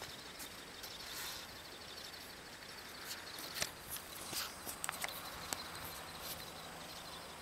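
Quiet outdoor ambience with a faint, fast, high pulsing chirp. A handful of short sharp clicks and knocks fall in the middle, the loudest a little over three and a half seconds in.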